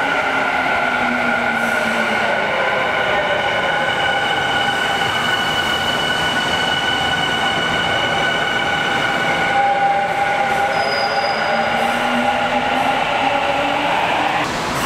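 Tokyu 5050 series electric train standing at an underground platform with its doors closed, its onboard electrical equipment giving a steady hum of several held tones. Lower tones slide down early on and rise again near the end.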